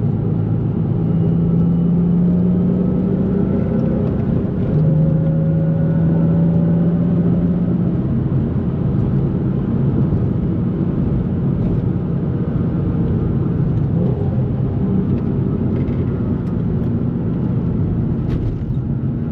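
2004 Nissan 350Z's 3.5-litre V6 engine and exhaust pulling steadily on the road. The engine note breaks off briefly about four seconds in and picks up again, then holds steady.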